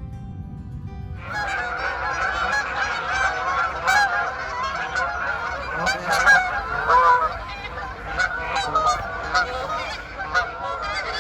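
A large flock of Canada geese flying over, honking, many calls overlapping in a continuous clamour that starts suddenly about a second in.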